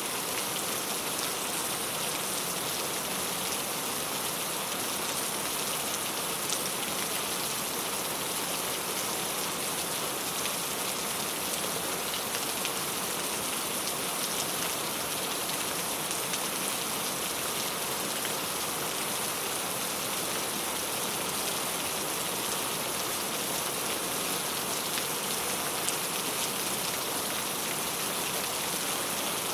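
Steady rain falling on a clay-tile roof: a dense, even patter with a few louder single drops.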